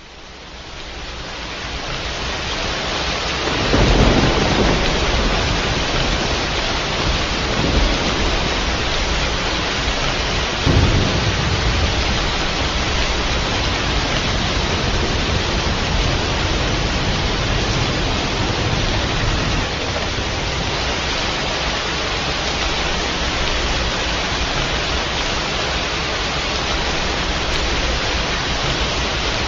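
Steady heavy rain with rumbles of thunder, the strongest about four seconds in and again about eleven seconds in. The rain fades in over the first couple of seconds.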